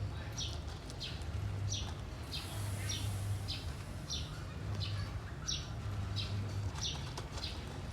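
A small bird chirping over and over, short falling chirps about twice a second, with a low hum underneath that comes and goes.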